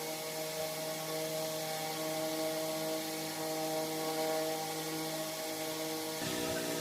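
A small motor running steadily with an even, multi-toned hum; its pitch shifts and wavers lower near the end.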